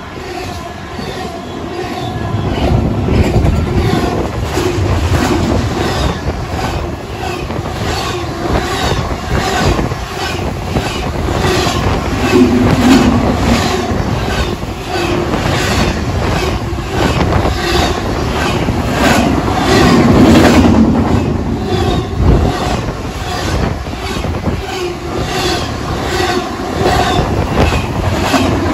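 Double-stack intermodal container train passing at speed, its well-car wheels clacking in a steady rhythm over rail joints above a continuous rumble.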